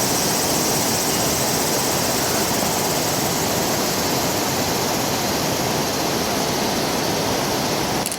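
Small engine chainsaw running steadily at high revs, a dense, even noise, cutting off abruptly at the end.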